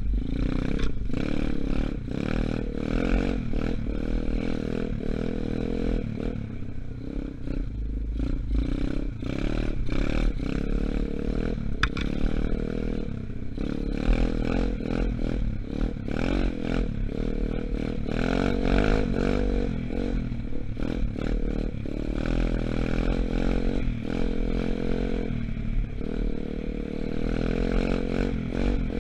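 A 125cc dirt bike engine running under way, its pitch rising and falling as the throttle opens and closes. Many short rattles and knocks run over it, with a heavy low rumble underneath.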